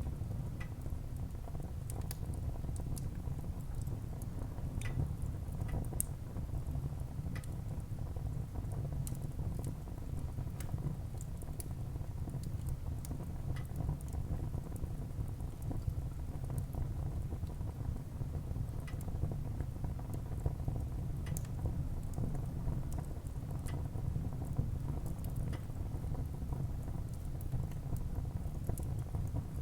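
Wood fire burning in a fireplace: a steady low rumble of flames with scattered small crackles and pops from the burning wood.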